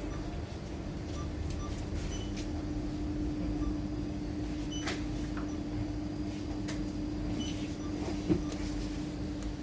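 BCA ATM machine humming steadily with a held low tone, a few faint clicks and one sharp click about eight seconds in.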